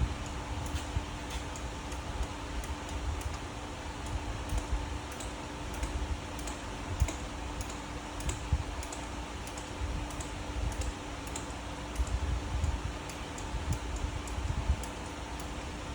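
A hand-operated fluid pump being worked to push ATF into a manual transmission gives a run of short, irregular clicks over a steady low hum.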